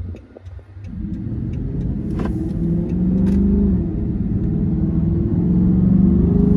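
Dodge Charger SRT 392's 6.4-litre HEMI V8 accelerating as the car pulls away, heard from inside the cabin. The engine note builds over the first few seconds and then holds loud.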